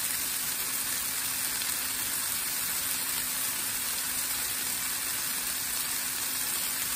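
Seasoned fajita vegetables (peppers and onions) sizzling steadily on a hot griddle set to 350 degrees, medium-high heat, with a faint steady hum underneath.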